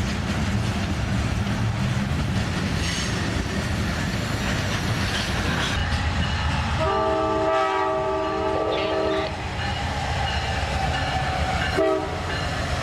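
Train running past with a steady rumble of wheels on rail, its locomotive horn sounding a chord for about two and a half seconds about seven seconds in, then a short toot near the end.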